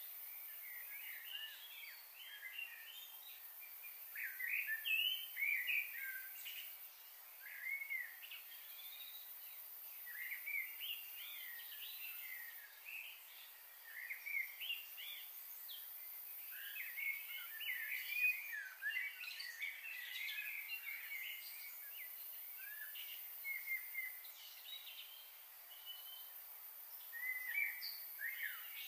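Several birds calling, with many short chirps and whistles overlapping, over a faint steady hiss.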